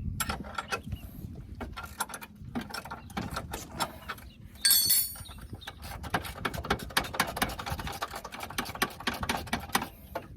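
Hand tools and metal parts on a car's front suspension upper control arm: a run of short metallic clicks and knocks, with one louder metallic clatter and ringing about halfway through.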